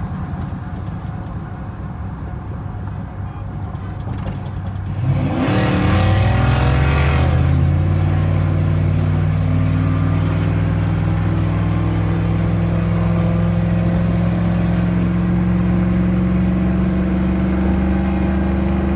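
Truck engine with a low rumble that revs up about five seconds in, the pitch climbing quickly, then holds a steady, even drone.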